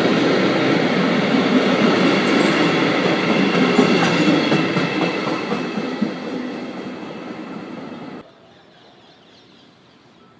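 A train passing through a station, its wheels running on the rails in a steady loud rush with faint ringing tones, slowly fading as it moves away. The sound cuts off abruptly a little past eight seconds in, leaving only quiet background.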